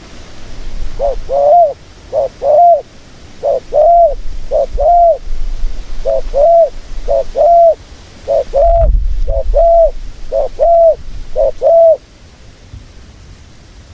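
A dove cooing in short paired notes, repeated steadily about eleven times, with a low bump about two-thirds of the way through.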